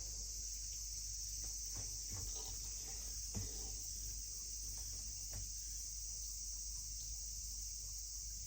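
Washing machine running quietly between stages of its drain-and-rinse cycle: a steady low hum with a few faint clicks and one soft knock about three and a half seconds in, under an even, high-pitched hiss.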